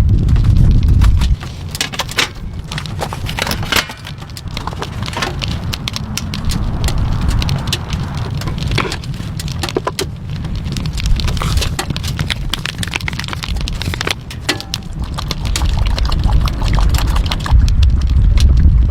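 Wind rumbling on the microphone, strongest in the first second or so and again near the end, over many scattered sharp ticks of rain hitting a surface.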